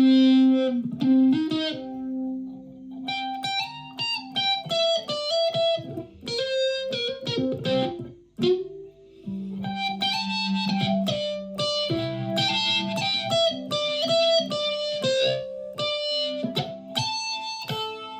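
Solid-body electric ukulele played through a clone effects pedal into a small PA speaker: picked melodic phrases of single notes and chords, with a short break a little before halfway.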